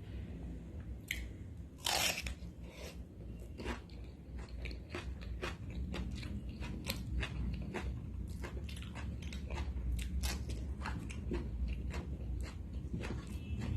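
Close-miked eating: a person chewing food with a run of wet crunches and clicks of the mouth, the loudest bite about two seconds in.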